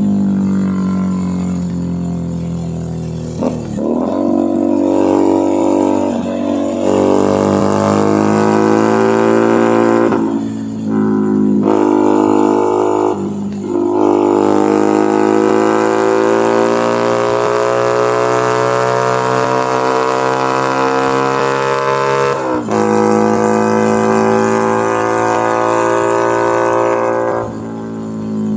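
Keeway SCR 250V motorcycle exhaust while riding. The engine note climbs as it accelerates, with short throttle lifts for gear changes: a couple of breaks about ten to fourteen seconds in, and a sharp drop in pitch a little past twenty seconds. Wind hiss runs underneath.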